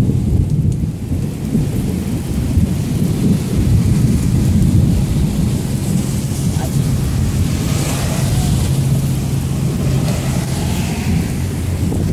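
Thunderstorm: a long, continuous low rumble of thunder over steady rain, with no sharp crack.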